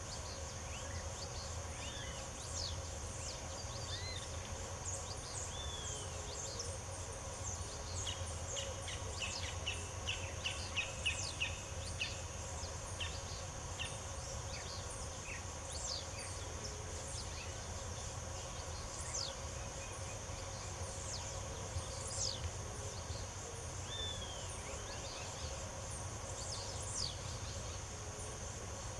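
Wild birds singing: scattered short chirps and whistles, with a quick run of repeated notes about ten seconds in. Under them runs a steady high insect drone and a low background rumble.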